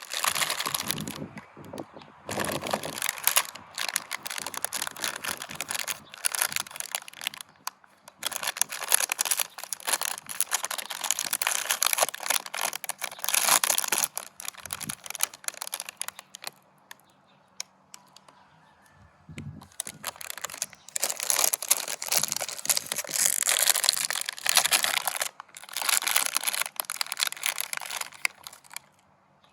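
Meat grinder mincing donuts: dense crackling and squishing in bursts of several seconds, with a quieter stretch a little past the middle.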